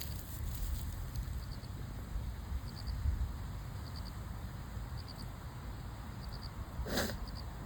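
An insect, cricket-like, chirping faintly and regularly: short high-pitched chirps of two or three quick pulses, a little more than once a second, over a low wind rumble. A brief rustle comes near the end.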